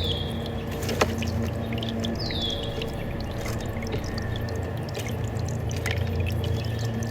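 A bird gives a short downslurred whistle, once at the start and again about two seconds in, over a steady low hum. A single sharp click comes about a second in.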